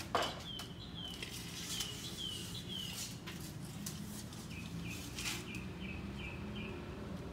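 A songbird singing two runs of quick repeated slurred notes, the second run lower in pitch, over a steady low hum. A few sharp clicks, the loudest just at the start, come from handling the board.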